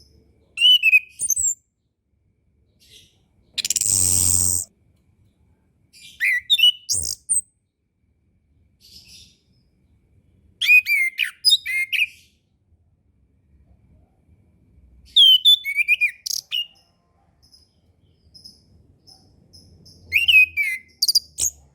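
Chestnut-capped thrush singing: five short phrases of quick whistled notes and trills, each about a second long, with pauses of several seconds between them. A loud buzzy burst lasting about a second comes about four seconds in.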